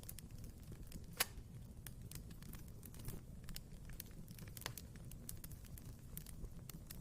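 Wood fire crackling in a fireplace: scattered sharp snaps and pops over a low steady background, with one loud pop about a second in and another a little before the five-second mark.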